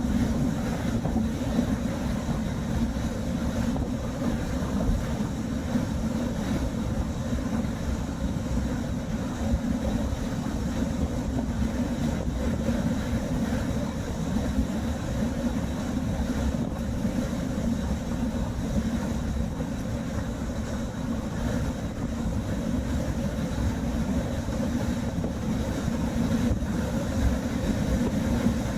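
Steady low road and engine rumble inside a moving car's cabin, even in level throughout.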